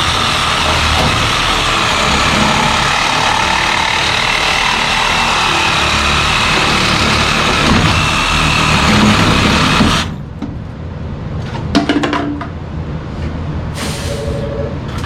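Loud, steady machine noise that cuts off abruptly about ten seconds in. A few clicks follow, and near the end a phone begins to ring.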